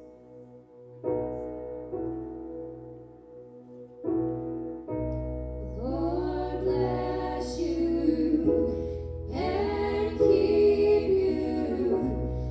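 Live church worship music: sustained keyboard chords, with a deep bass coming in about five seconds in and a singer's voice joining about a second later.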